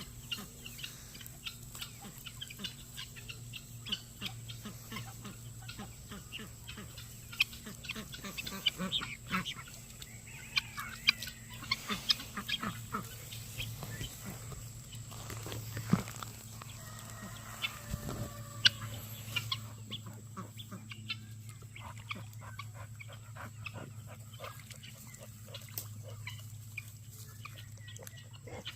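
Chickens clucking, with many scattered short clicks and rustles over a steady low hum.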